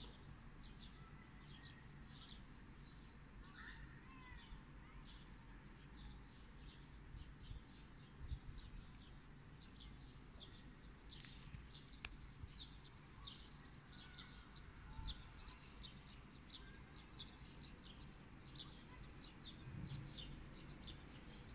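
Faint birdsong: short, high chirps repeated over and over, coming more thickly in the second half, over a low background hum.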